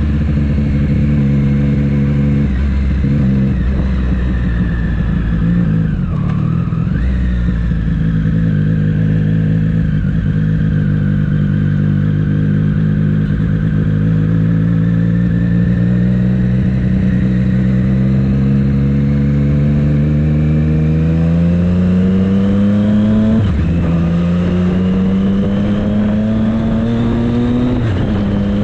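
Triumph Street Triple 765 S's inline-three engine running on the road. After a stretch of fairly steady pitch it climbs in a long acceleration, drops sharply at an upshift about three quarters of the way through, then climbs again to a second upshift near the end.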